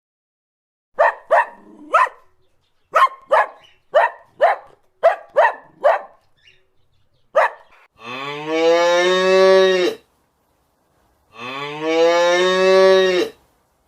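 A run of about eleven short, sharp animal calls over the first seven seconds, then a cow mooing twice: two long, drawn-out moos of about two seconds each that rise in pitch at the start.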